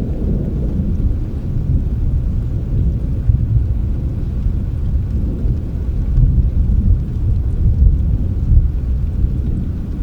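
Thunderstorm: a low, rolling rumble of thunder that swells and fades over a faint patter of rain.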